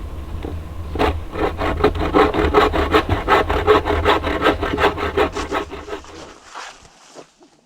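Hand saw cutting through wood in fast, even back-and-forth strokes, about five a second. The sawing starts about a second in and stops a little before the end.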